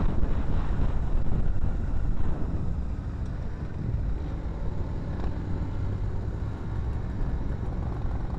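Motorcycle on the move: engine and wind noise from on the bike, a steady low rumble.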